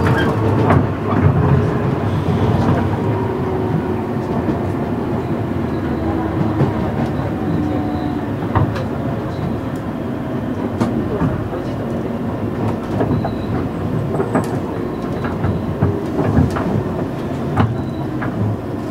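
Running sound heard inside the carriage of a 117 series 100-subseries electric train underway: a steady rumble of wheels on rail with a faint motor whine that slides in pitch now and then. Sharp clicks sound at irregular moments, strongest past the middle.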